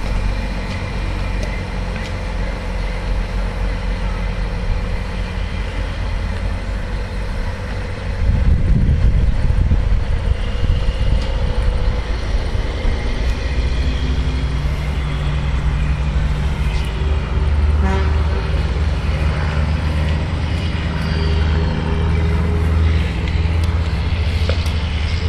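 Mack truck's diesel engine idling, then about eight seconds in growing louder as the truck pulls away, its note climbing in steps through the gears. A horn toots along the way.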